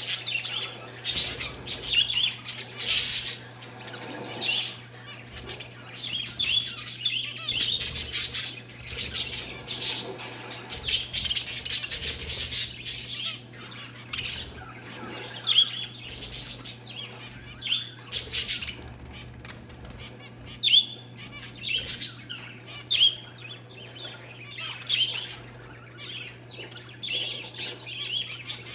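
A flock of pet parakeets and zebra finches chirping continuously in quick, overlapping short calls, mixed with brief rustling bursts, over a steady low hum.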